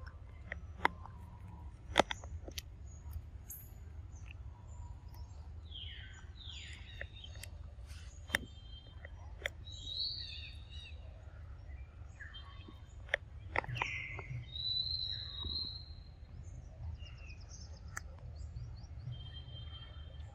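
Birds chirping and calling, with a few falling calls partway through and high chirps later, over a steady low background rumble. Several sharp clicks stand out as the loudest sounds.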